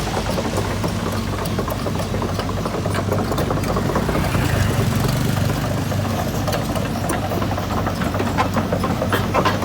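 Caterpillar excavator's diesel engine running steadily as the machine travels on its tracks, its note swelling briefly about halfway through, with a few sharp clicks near the end.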